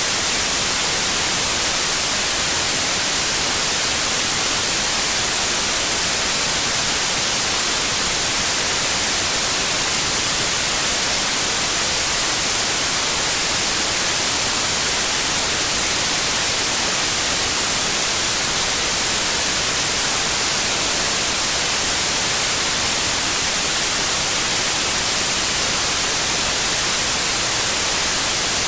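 Steady white noise, an even hiss with no changes in level.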